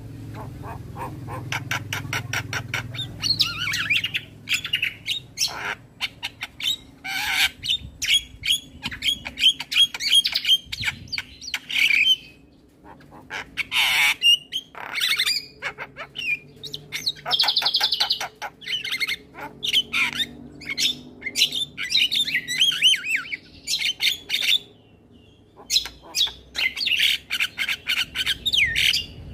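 Male Javan myna singing a long, varied song of rapid clicks, rattling chatter, squawks and whistled phrases. The song breaks off for two brief pauses, near the middle and again toward the end.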